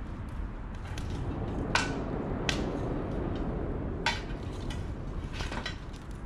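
Metal cookware and utensils clinking a few times, sharp knocks with a short ring, over a steady low background noise.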